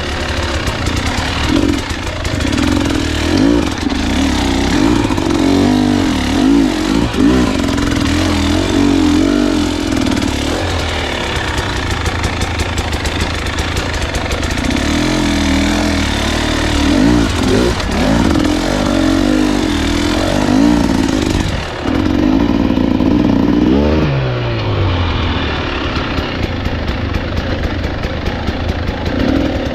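Dirt bike engine revving up and down over and over while riding a trail. About 24 seconds in the revs fall away sharply and the engine settles to a steadier, lower note.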